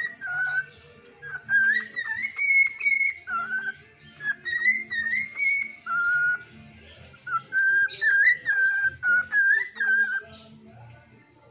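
A pet songbird whistling a sholawat melody: clear, pure whistled notes in short phrases that step up and down with small slides between them.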